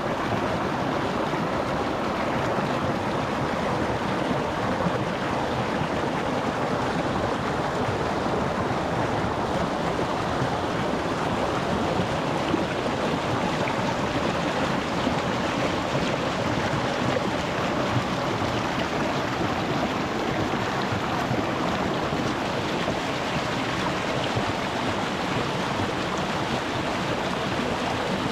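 Shallow rocky mountain stream rushing and burbling over stones in a steady, unbroken wash of water noise.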